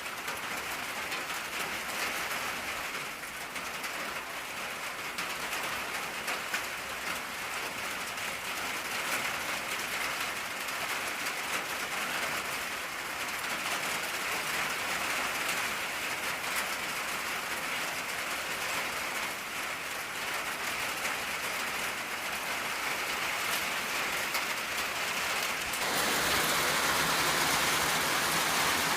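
Steady rain drumming on an old tin roof, an even hiss of many drops. It grows a little louder and fuller about 26 seconds in.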